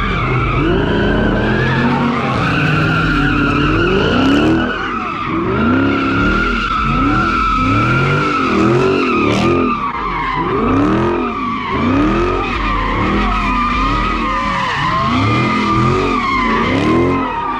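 Car doing donuts: tyres squealing continuously while the engine revs rise and fall about once a second.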